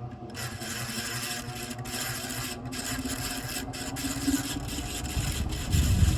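Tatung Spinner KFC-36W ceiling fan running with a steady mechanical grinding noise from its badly worn bearings. A louder low rumble swells in near the end.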